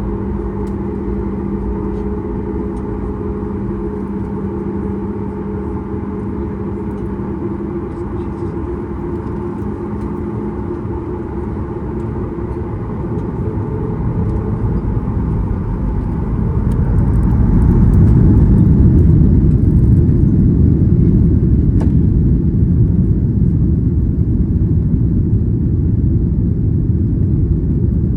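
Boeing 737 MAX 8's CFM LEAP-1B turbofan engines heard from inside the cabin: a steady hum with a few held tones, then about halfway through the engines spool up and a loud, deep rumble builds and holds, typical of the start of the takeoff roll.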